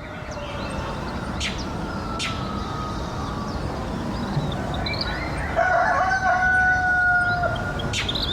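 Rooster crowing: one long, held crow about five and a half seconds in, with a fainter distant call earlier, over a steady outdoor background hiss and rumble with a few sharp clicks.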